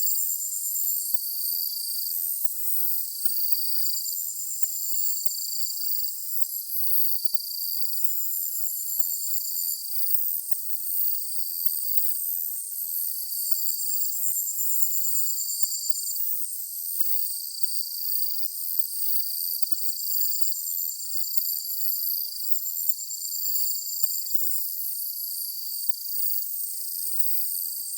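Evening chorus of chirping insects: several high-pitched pulsed trills at different pitches, each about a second long, overlapping and repeating every second or two over a steady shrill hum.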